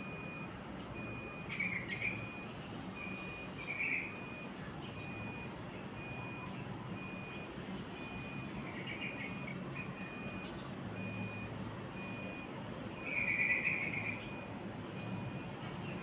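Short bursts of bird chirping, four times, the longest and loudest near the end. Under them an even, high-pitched beep repeats about once every three-quarters of a second, over a steady low hum.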